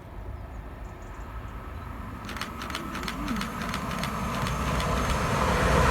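TransPennine Express class 185 diesel multiple unit approaching on a through run, getting steadily louder. A rumble builds, and from about two seconds in the wheels start clicking over the rail joints, with a thin steady whine.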